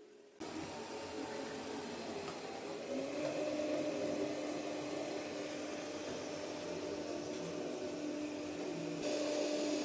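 ECOVACS Deebot T50 Omni robot vacuum running, its suction motor whirring. The whir starts suddenly just after the start, a steady hum joins about three seconds in, and it gets louder again near the end.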